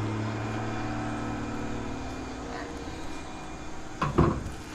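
An engine's steady hum with several even tones, slowly fading away over the first few seconds, followed by a brief louder sound about four seconds in.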